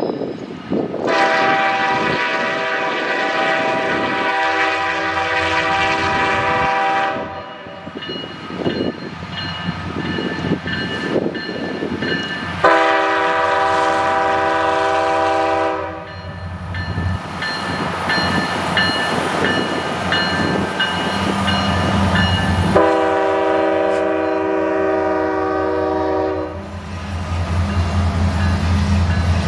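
Diesel locomotive's multi-chime air horn sounding three long blasts, the first the longest, over the rumble of a passing freight train. The low engine and rail rumble grows louder near the end.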